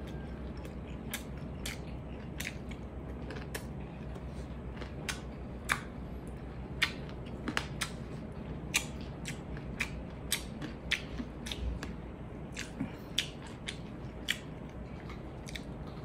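Close-up eating sounds of a person chewing kinilaw (raw fish in vinegar) with rice by hand: wet mouth smacks and sharp clicks coming irregularly, one to three a second, over a low steady hum.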